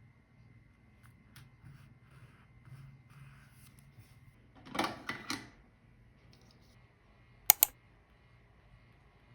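Close-up handling of journaling stationery on a desk: a brief rustle about five seconds in, then two quick sharp clicks near the end.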